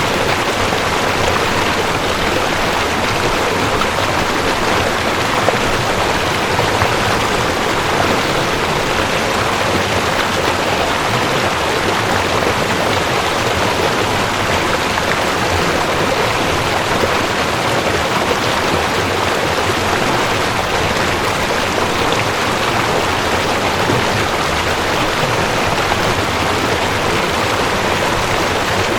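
Mountain stream rushing over rocks: a steady, even water rush with no break.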